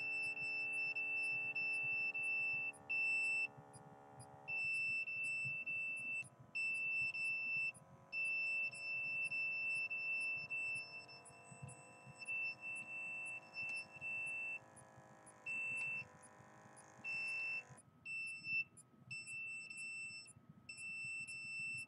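A high electronic tone beeping on and off in irregular stretches, typical of an RF meter's audio alert. Under it, an automatic blood pressure monitor's pump hums for the first few seconds, then gives way to a softer drifting drone as the cuff is worked through its reading.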